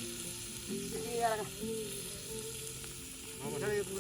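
Chicken sizzling as it cooks on a hot stone, a steady hissing frying sound.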